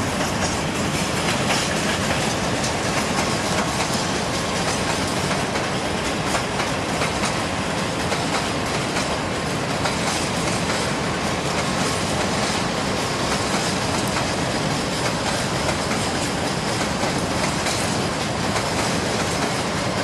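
Freight train wagons rolling past on the rails, a loud steady rumble with the clickety-clack of wheels over rail joints.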